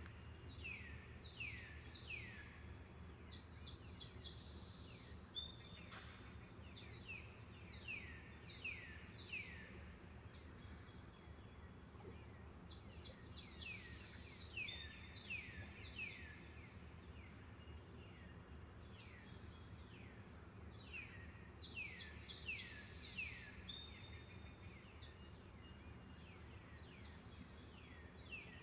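Forest ambience: a songbird sings phrases of quick, repeated down-slurred notes every few seconds over a constant high-pitched insect trill, with a low steady rush beneath.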